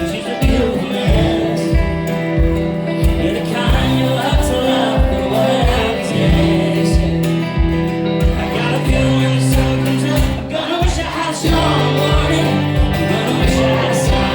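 Live country-pop music: a male voice singing over guitar, with a steady low beat about twice a second.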